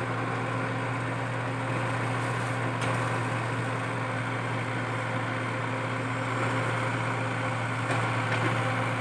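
Komatsu PC80 excavator's diesel engine running at a steady speed with an even hum, and a faint knock about three seconds in.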